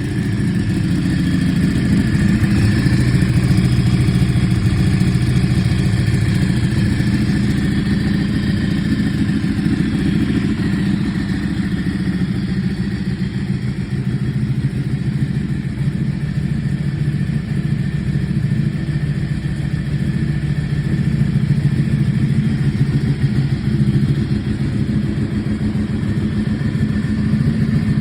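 Ducati 1199S Panigale's 1198 cc Superquadro L-twin engine idling steadily through a full titanium exhaust.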